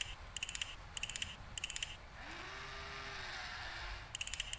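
Clockwork mechanism sound effects of an automaton's eyes being removed and replaced: short bursts of rapid ratcheting clicks, then about two seconds of hiss with a faint low whirring tone that slides up and holds, then rapid clicking again near the end.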